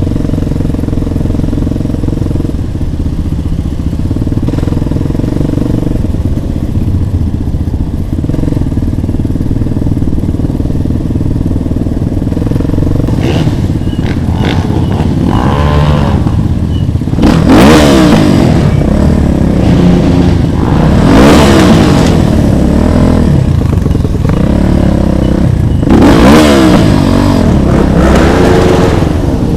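Small motorcycle engines idling steadily for about the first half, then revved again and again, each rev a rising and falling whine, louder in the second half.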